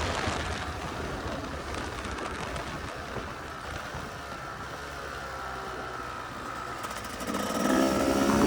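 Dirt bike engine running at low revs, then revving up again about seven seconds in.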